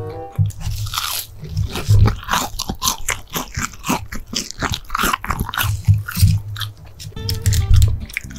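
Close-miked biting and chewing of crisp-coated fried food, a rapid run of crunches right at the microphone.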